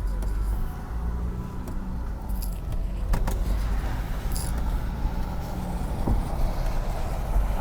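Inside a moving car: steady low engine and road rumble, with light rattling and two sharp knocks, one about three seconds in and one about six seconds in.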